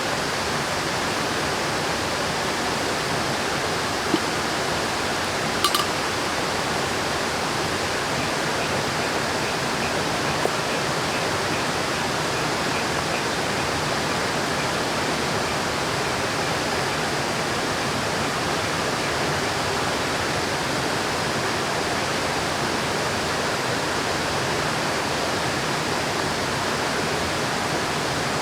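River water flowing steadily, an even rush of noise throughout. Two brief small knocks sound about four and six seconds in.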